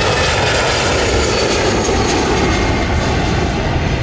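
Jet airliner's engines running loud as it passes close, a dense roar with a faint whine that drifts slightly down in pitch; the highest hiss thins toward the end as it moves away.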